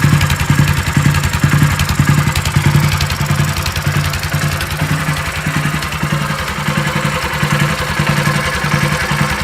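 Honda GX160 single-cylinder four-stroke engine running steadily, with a fast, even firing beat.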